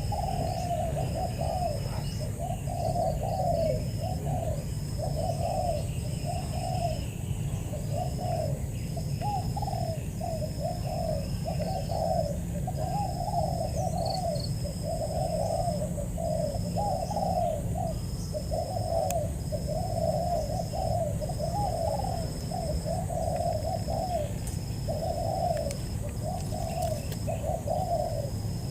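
Spotted doves cooing: a steady, unbroken run of short coos, about one to two a second.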